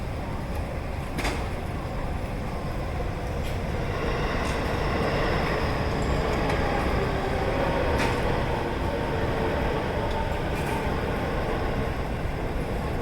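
JR Nambu Line electric commuter train running past the level crossing, its sound swelling from about four seconds in, loudest a little past the middle, then easing off. A few sharp clicks sound over it.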